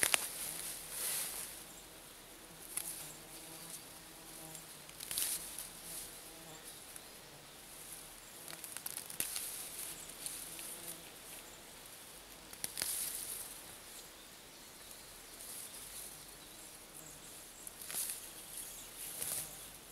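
Summer insects chirring steadily in the grass, high-pitched and swelling now and then, with a faint hum and a few brief rustles.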